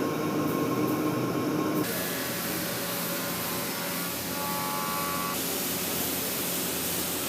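Woodworking factory machinery running steadily: a mechanical hum with a steady hiss over it, the sound changing abruptly about two seconds in to a brighter, hissier machine noise.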